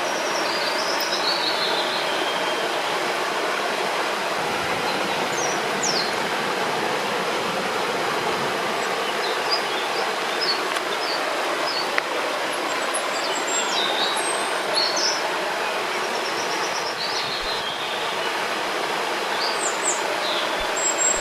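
Steady rush of flowing river water, with small birds chirping over it in short, scattered calls throughout.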